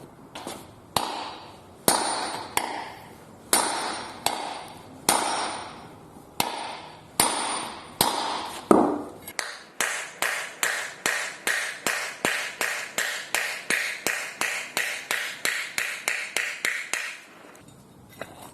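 Hammer blows on metal, driving the old wheel bearing out of the car's wheel hub. For about nine seconds come heavy, ringing strikes roughly one a second, then a faster run of lighter, ringing taps, about three to four a second, which stops near the end.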